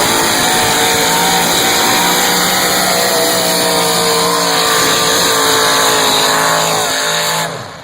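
Competition pulling vehicle's engine running loud and hard at full power during a pull, with its pitch wandering slightly. The sound drops away sharply near the end.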